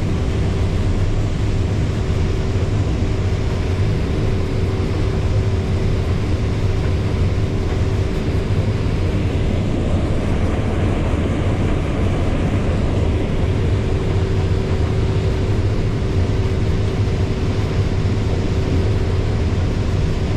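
Combine harvester running steadily while harvesting corn, heard from inside the cab: a constant machine drone with a deep hum and a steady mid-pitched whine.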